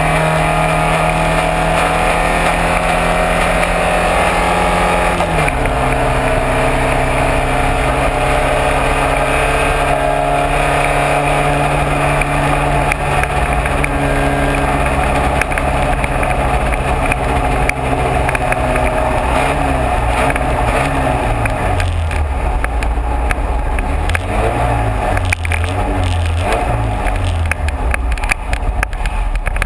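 Race car engine running at steady revs; its pitch drops sharply once about five seconds in, then from about twenty seconds in the revs rise and fall repeatedly, as in braking and changing gear for corners.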